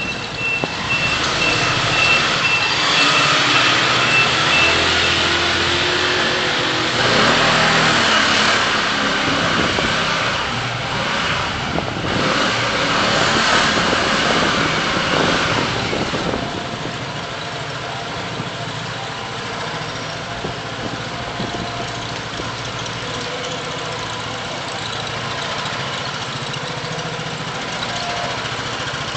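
Car driving in city traffic: engine and road noise with other vehicles passing, louder for the first half, then settling into a steadier, quieter hum.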